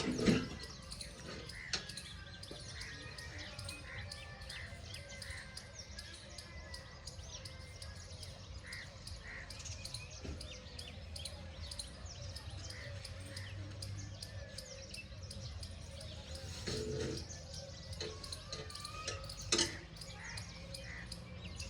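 Birds chirping in short repeated notes over a steady low rumble, with a sharp knock right at the start and another near the end.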